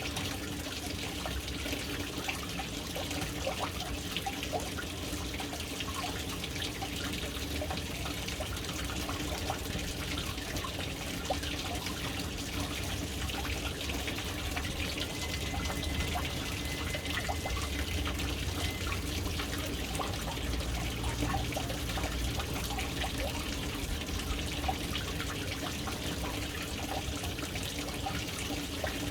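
Water falling from the inlet into a household water tank (caixa d'água), a steady trickling splash with scattered drips and a low steady hum underneath.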